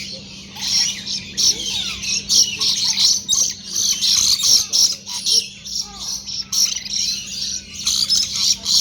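A flock of parrots chirping and squawking, many short calls overlapping in a constant chatter, over a steady low hum.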